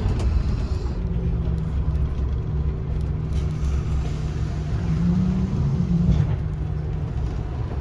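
Scania N230UD double-decker bus's five-cylinder diesel engine running under way, heard from inside the bus as a steady low rumble. Its note rises briefly about five seconds in, then drops back.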